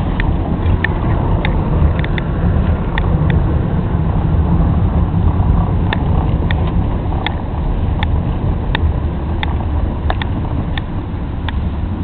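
Steady low rumble of a moving vehicle, with scattered short sharp ticks throughout.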